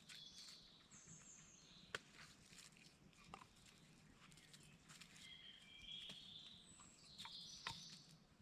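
Quiet woodland ambience: faint, high-pitched bird calls now and then, with a few small, sharp clicks.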